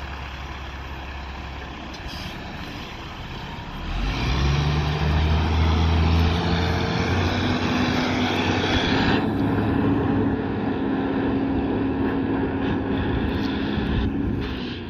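Heavy diesel engine idling low, then about four seconds in it revs up and runs hard under load, a deep steady engine note.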